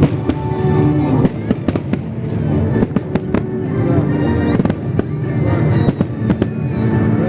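Festive fireworks salute going off, many sharp bangs and crackles in quick succession, over music with long held notes.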